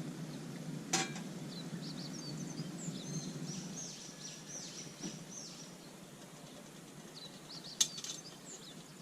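Outdoor ambience with birds chirping in short, high, falling notes, and two sharp clicks, one about a second in and a louder one near the end.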